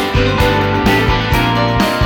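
Instrumental passage of a rock song without vocals: guitars over bass and drums keeping a steady beat.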